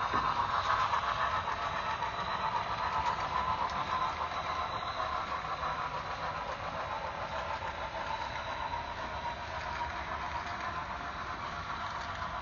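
Model passenger train running along layout track: steady rolling noise of wheels on rail and motor, with fine rapid clicking. It fades slightly as the train moves away.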